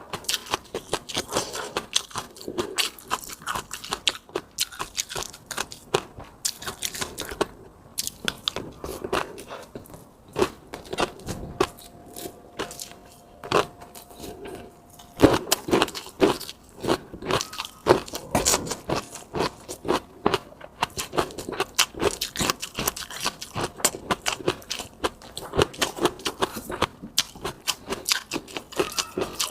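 Close-miked mukbang eating sounds: a person chewing and biting food, with a rapid run of wet clicks and crackles throughout.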